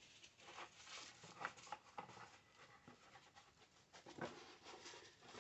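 Near silence, with faint scattered small taps and rustles.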